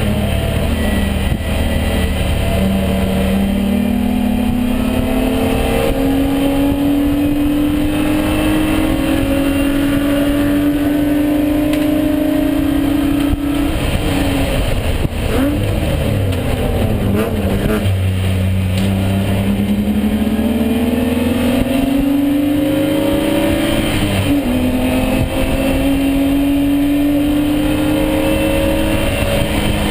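BMW E36 race car's engine under hard acceleration, its pitch climbing steadily. About halfway through it lifts off, and a run of quick rev blips follows as it downshifts into a corner. It then climbs through the revs again, with an upshift a little after two-thirds of the way.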